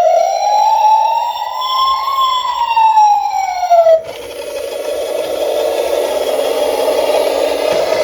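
Police siren: a slow wail rising and falling, switching about four seconds in to a rapid warbling yelp.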